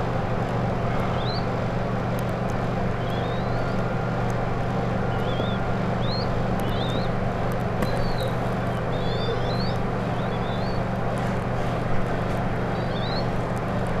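Small birds peeping in short, high, quick chirps scattered every second or so, over a steady low hum.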